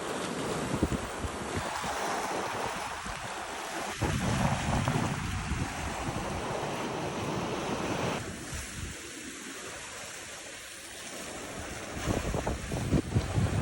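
Ocean waves washing in, with wind buffeting the microphone. The wash eases for a few seconds after the middle, then swells again near the end.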